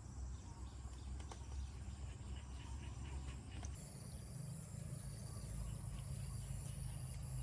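Rural field ambience: a steady high insect drone that comes in about halfway through, over a low rumble, with a few faint short chirps in the first half.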